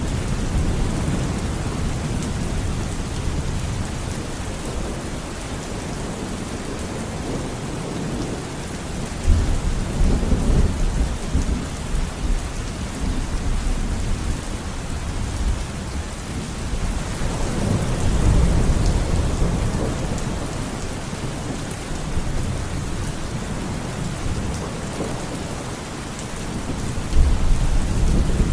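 Steady heavy rain falling, with deep rolling thunder rumbles that swell and fade several times: about a third of the way in, again past the middle, and once more near the end.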